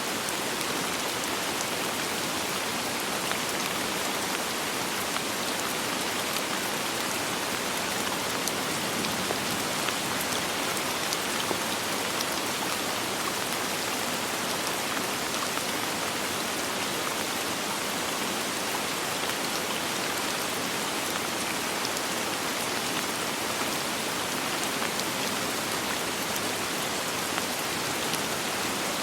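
Steady soft rain falling, an even hiss of many fine drops with small scattered patters and no thunder.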